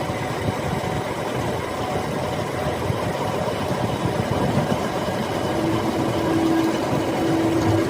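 A machine running steadily, with a steady hum that comes in about five and a half seconds in.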